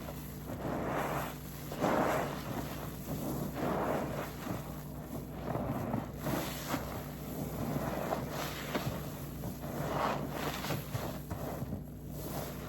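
A soapy car-wash waffle sponge being squeezed and wrung by hand: repeated wet squelches of foam and detergent, each swelling and fading every second or two.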